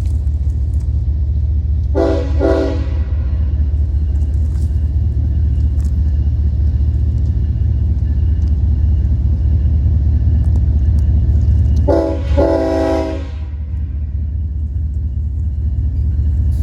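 Nathan K5HL five-chime air horn on a BNSF ES44DC locomotive sounding two short blasts about two seconds in, then a short and a longer blast about twelve seconds in, over the steady low rumble of the train.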